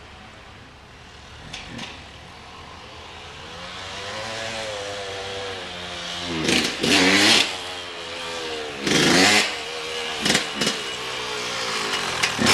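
An engine running and revving, growing louder from a few seconds in, with several sharp surges in speed.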